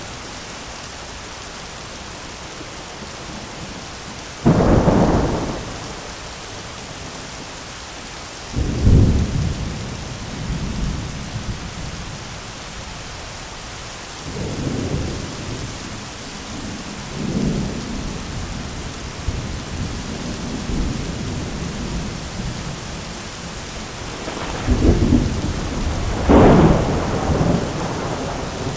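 Thunderstorm: steady rain hiss under repeated thunder. A sudden loud clap comes about four seconds in, and another near nine seconds rolls off into rumbling. Softer rumbles follow in the middle, and two loud claps land close together near the end.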